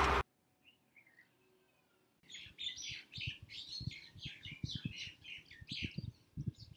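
Birds chirping: a busy run of short, quick calls that starts about two seconds in after a near-silent pause.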